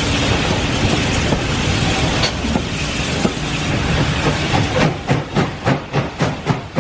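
Passenger train running along the line with a steady rumble and hiss. Near the end the steam locomotive's exhaust beats come through clearly, about four chuffs a second.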